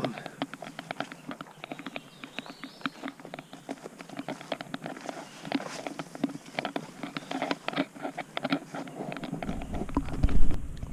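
Footsteps pushing through dense briars and tall weeds, an irregular crackle and swish of stems and leaves with each step. About a second before the end there is a brief low rumble.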